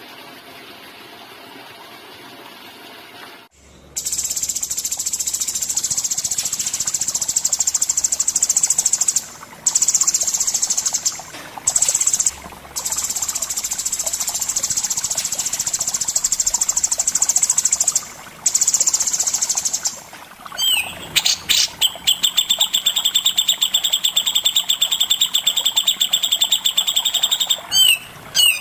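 Recorded songbird song: after a few seconds of faint hiss, a long, high, steady buzzing trill with a few short breaks, then from about 20 seconds in a fast run of sharp, repeated high notes.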